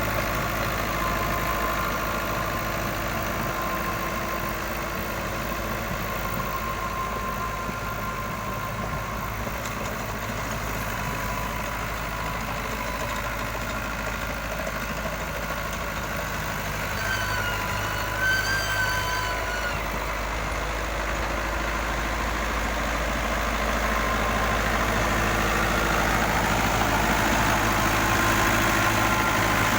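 Fiat 640 tractor's diesel engine running steadily, growing louder in the last third. A brief wavering whistle-like call rises and falls about two-thirds of the way through.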